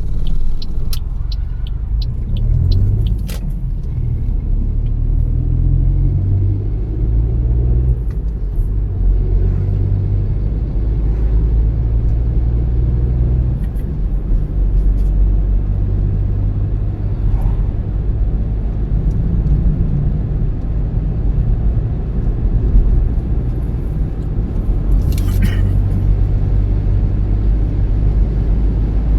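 A car being driven, with a steady low rumble of engine and road noise. The engine note shifts in pitch during the first few seconds. A run of evenly spaced ticks, about two a second, stops about three seconds in.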